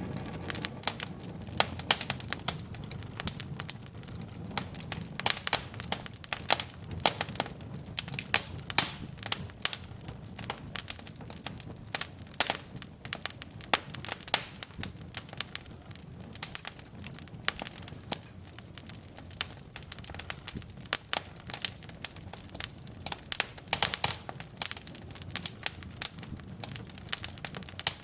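Wood fire burning in a fireplace: logs crackling and popping in irregular sharp snaps over a low, steady rumble of flame.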